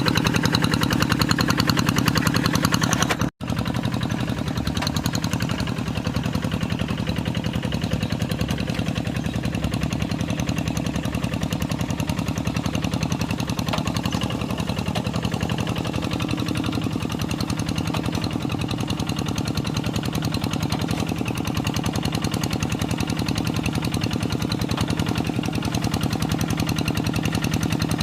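Kubota RD85DI-2S single-cylinder diesel of a Quick G3000 hand tractor running steadily, with a rapid, even knock from its firing strokes. The sound cuts out for an instant about three seconds in, then carries on unchanged.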